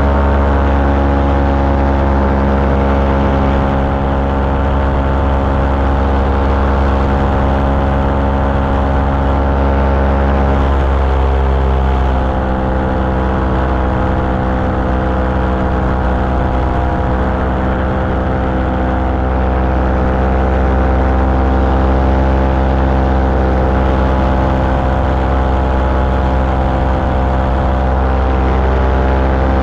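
Small aircraft engine and propeller running steadily in flight, with a deep rumble underneath. The engine note eases slightly lower about eleven seconds in.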